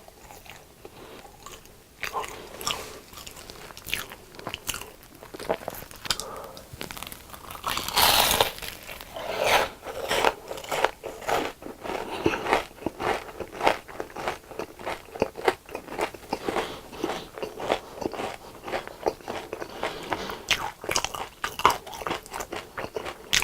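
Close-miked biting and chewing of crispy deep-fried food, a dense run of crunches starting about two seconds in, with a loud crunching bite about eight seconds in.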